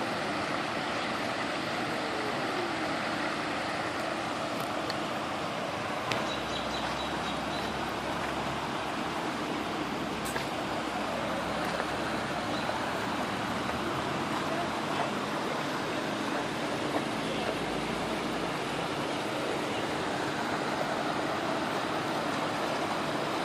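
Steady rushing of water gushing from a burst water main and flooding across the street.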